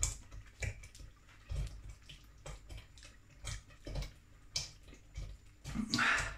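Wet mouth clicks and lip smacks, about two a second, from a man chewing and tasting a spoonful of Carolina Reaper chilli. Near the end comes a loud open-mouthed breath out as the heat hits.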